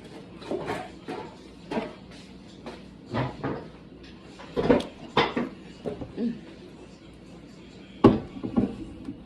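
Things being handled and set down: irregular short knocks and clatters, the loudest about halfway through and again near the end.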